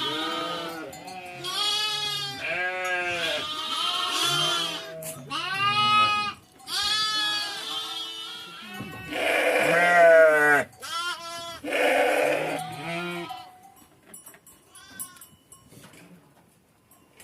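A herd of sheep and goats bleating, many calls of about a second each overlapping at different pitches. The calls thin out to a few faint ones near the end.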